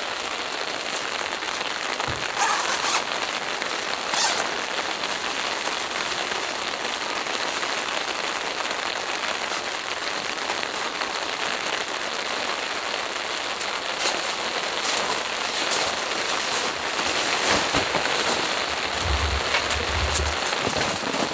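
Steady rain falling, with a few louder drop hits now and then. A low rumble comes in near the end.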